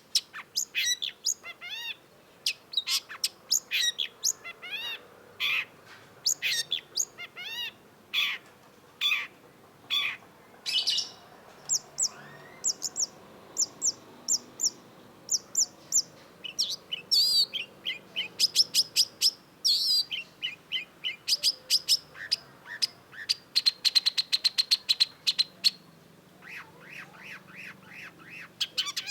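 Long-tailed shrike singing: a long, varied run of short sharp notes with fast trills between them.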